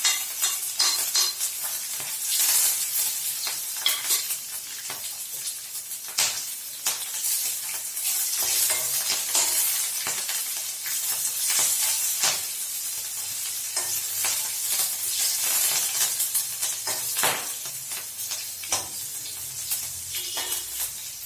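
Hot oil sizzling as green chillies fry in a tempering of mustard seeds, cumin and curry leaves, with frequent short clicks and scrapes of stirring in the pan.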